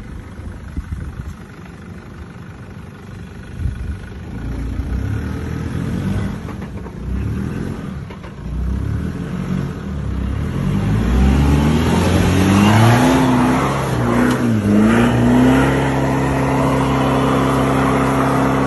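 Four-wheel-drive vehicle's engine pulling over an off-road track: a low rumble at first, then revving up and down several times from about halfway, and holding a steady higher pitch near the end.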